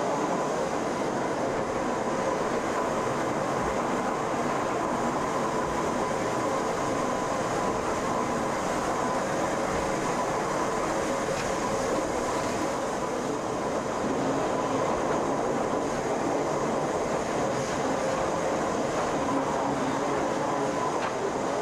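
Pilatus-Bahn cog-railway railcar running steadily, a constant whine over the rumble of the train.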